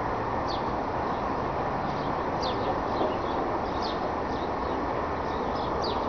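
Small birds chirping outdoors, short high notes falling in pitch, several times over a few seconds, over a steady low rumble of background noise.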